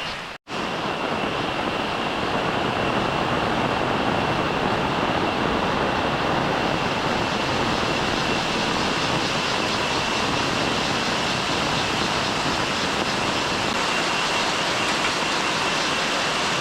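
Heavy rain falling steadily: a dense, even hiss, with a faint steady high tone running through it. It cuts out for a moment about half a second in, then carries on unchanged.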